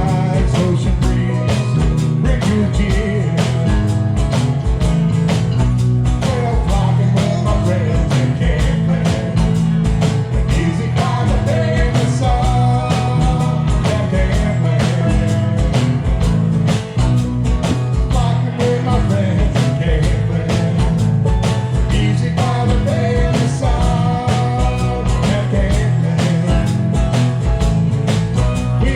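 Live band music with a steady drum beat over bass, guitar and steel drums.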